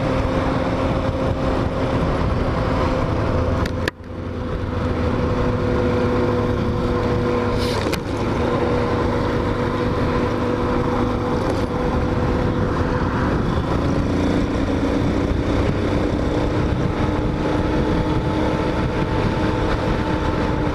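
Hawk 250 motorcycle engine running at a steady cruising speed, with wind noise on the microphone. The sound drops out sharply for a moment about four seconds in and dips briefly near eight seconds. Later the engine note settles at a different pitch.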